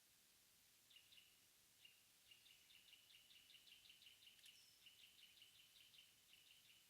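Faint wild bird calling: a rapid run of high chirping notes, several a second, starting about a second in and running to near the end, with one short sharp high note about two thirds of the way through.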